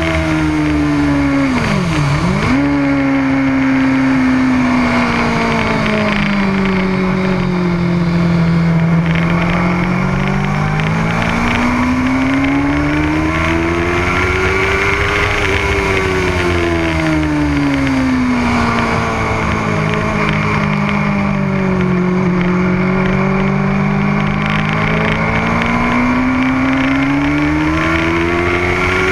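Motorcycle engine running hard around a race track, its pitch falling and rising in long smooth sweeps as the rider rolls off and back on the throttle, with one sharp quick dip in revs about two seconds in.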